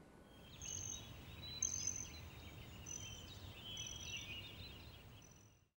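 Faint bird chirps, short high calls repeating about once a second over a low rumble, fading out near the end.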